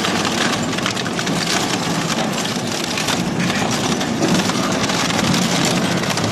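Industrial shredder running and chewing up an old Honda motorcycle: continuous grinding, packed with cracking and snapping as the bike is crushed and torn apart.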